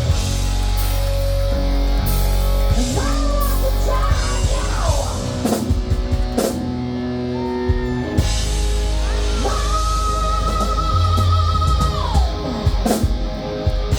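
Rock band playing heavy metal on drums, bass and electric guitar. The lead guitar bends notes, then holds one long note with vibrato from about two-thirds of the way through.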